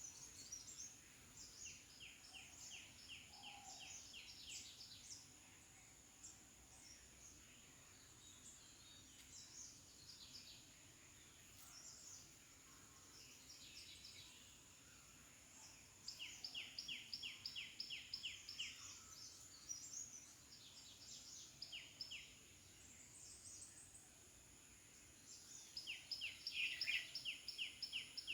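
Birds singing: one bird gives a quick series of about eight to ten evenly spaced, repeated notes three times, near the start, about halfway and near the end, with scattered chirps from other birds between. A faint steady high-pitched whine runs underneath.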